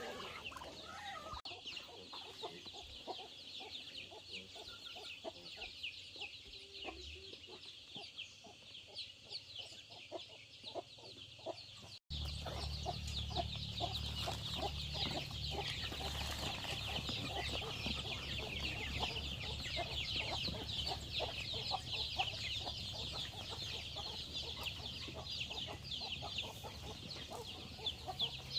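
A flock of chickens clucking and peeping, with many rapid high calls overlapping. After a cut about twelve seconds in, a steady low rumble runs under the calls.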